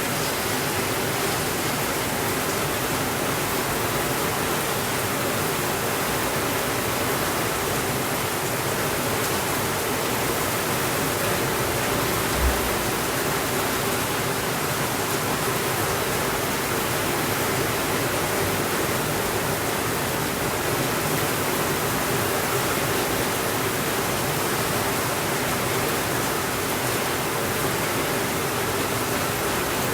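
Heavy rain on a window, a steady even hiss, with a single brief low thump about twelve seconds in.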